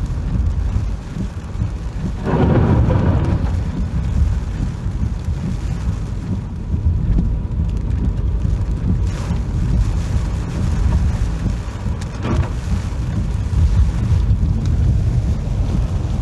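Typhoon wind buffeting the microphone in a steady low rumble, with rain, and a louder surge about two seconds in and two shorter ones later.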